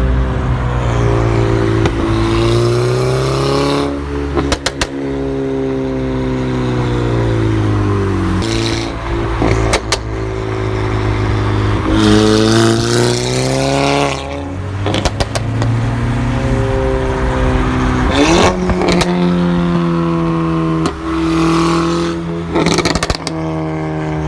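Seat Altea's turbocharged 2.0 TSI four-cylinder, on an Etuners stage 2 tune with a crackle map, rising and falling in revs. Short bursts of crackling pops from the exhaust come about five times, at the points where the revs drop.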